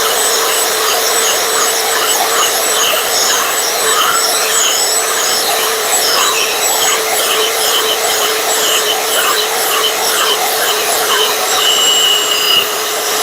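Electric drill running steadily under load with a constant whine, its old bit boring drain holes into the bottom of a small scrapped dishwasher part.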